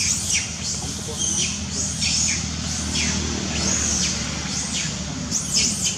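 Birds chirping in the background with repeated short, high calls that rise and fall, about two a second, over a low steady hum.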